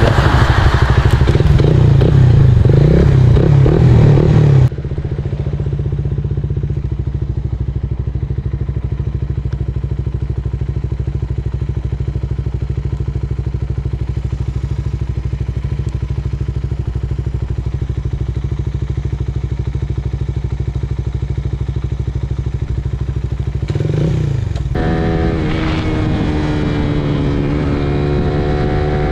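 Suzuki Raider 150 Fi motorcycle's fuel-injected single-cylinder engine, running on an aftermarket Aracer ECU. It runs loud and rough for the first few seconds, then drops suddenly to a steady idle. Near the end a second engine note falls and then rises over the idle.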